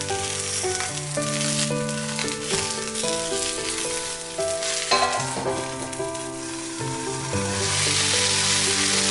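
Eggplant halves sizzling in hot oil in a cast-iron skillet, over background music. There is a short knock about halfway through, and the sizzle grows louder near the end.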